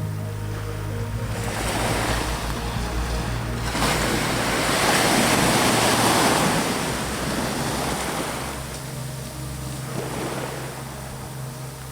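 Ocean waves breaking on a beach. One wave builds and is at its loudest about four to six seconds in, then washes back and fades.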